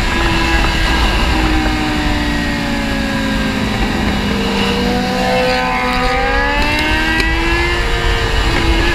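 Kawasaki Z800's inline-four engine running at highway speed, its pitch sagging and then climbing again as the throttle changes, under heavy wind rumble on the camera's microphone.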